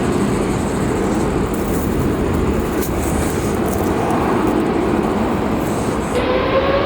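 Jet airliner engines, a steady loud roar; in the last second a rising whine sets in, as of engines spooling up.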